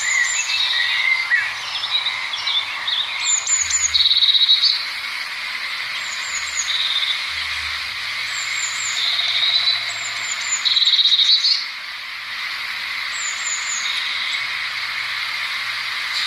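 Blue tit singing: short groups of thin, high descending notes, each followed by a lower, rapid trill, repeated several times over a steady background hiss.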